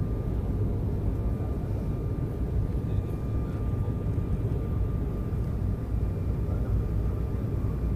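Cabin noise inside an Embraer 190 airliner: a steady low rumble of engines and airflow with a faint steady high whine over it.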